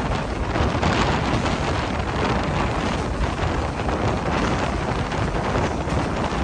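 Passenger train in motion: a steady, loud rush of wind and wheel-on-rail noise.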